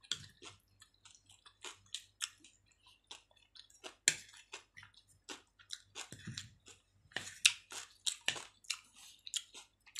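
Close-miked chewing of chicken: irregular wet mouth clicks and smacks, a few at a time, with the loudest about four and seven and a half seconds in.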